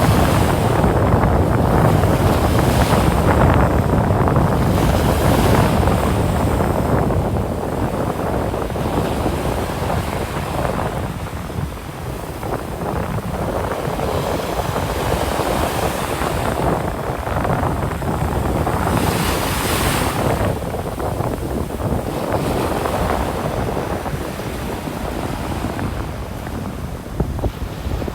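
Atlantic surf breaking and washing up a sandy beach in repeated surges, one big wave crashing near two-thirds of the way through. Wind buffets the microphone, adding a low rumble.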